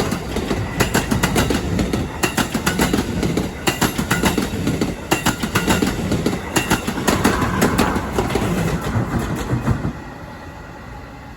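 A train passing close by at speed, its wheels clattering over the rail joints in a quick run of clicks over a loud rumble. The sound drops away suddenly about ten seconds in as the train clears.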